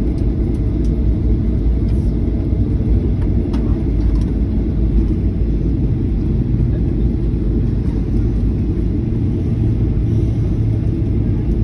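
Airliner cabin noise while taxiing after landing: a steady low rumble from the engines and the wheels rolling on the taxiway, with a low hum growing stronger near the end.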